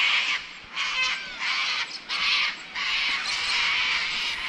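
Birds squawking: a run of harsh screeches, each under a second long with short gaps between them, and a few thinner chirps mixed in.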